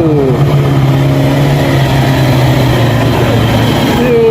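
Vehicle engines running on a steep road: a constant low engine drone, with a second, higher engine note falling in pitch during the first half-second, like a motorbike easing off as it passes.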